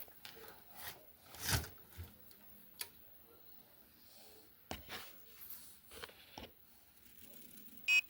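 Scattered light clicks and rubbing from handling small objects, then a short electronic beep near the end.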